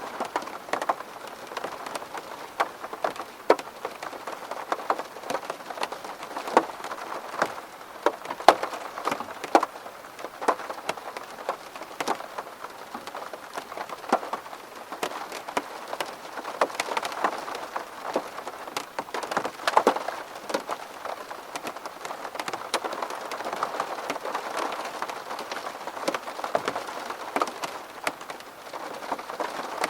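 Steady rain falling on a window pane, with many separate sharp drop hits over a continuous hiss of rain.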